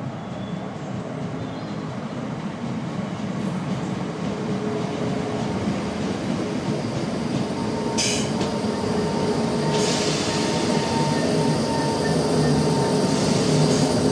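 Govia Thameslink Class 319 electric multiple unit arriving at the platform, its running rumble slowly growing louder, with a steady whine. A short high hiss comes about eight seconds in, and a steady hissing follows from about ten seconds as the train brakes.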